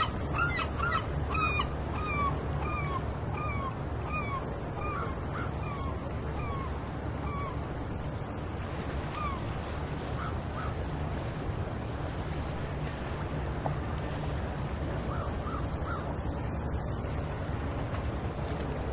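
Birds calling at the seashore: a run of short calls, each falling in pitch, about two a second for the first several seconds, then scattered calls, over a steady low rumble.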